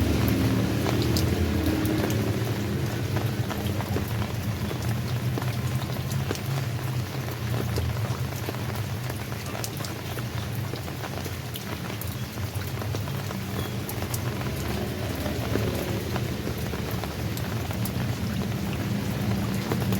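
Steady rain falling, with many individual drops ticking sharply on a surface, over a low steady hum.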